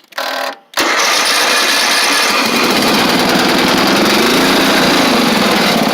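Mid-1980s Simplicity lawn tractor engine cold-starting: a brief crank, then it catches about a second in and runs fast and loud, its pitch rising and falling before it settles toward idle near the end.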